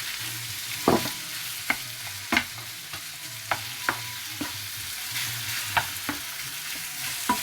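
Carrots, peas, onion and garlic sizzling in a frying pan while a spatula stirs them, clinking and scraping against the pan at irregular moments, sometimes with a short metallic ring.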